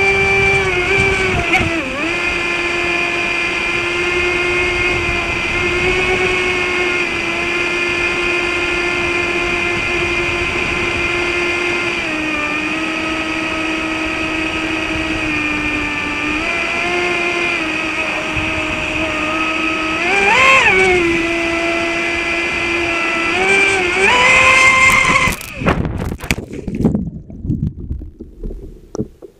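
Traxxas Spartan RC boat's electric brushless motor whining steadily at speed, with the pitch dipping and rising slightly as the throttle changes and sweeping up briefly twice near the end. The whine cuts off abruptly a few seconds before the end, leaving irregular splashy noise.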